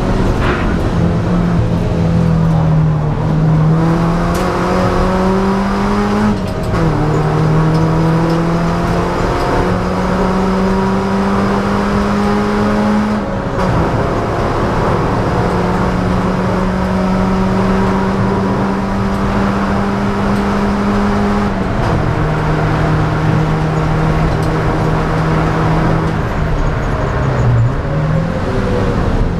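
Ford Laser KQ's four-cylinder engine at racing speed, heard from inside the cabin. The engine note climbs steadily and drops at each gear change, with one long steady pull about halfway through and two brief dips where the note falls and picks up again, over constant road noise.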